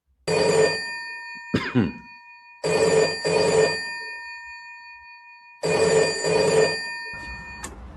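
Old public payphone's telephone bell ringing three times, each ring a quick double strike with the bell tones hanging on after it, signalling an incoming call. A short falling tone sounds between the first two rings, and a click near the end as the ringing stops.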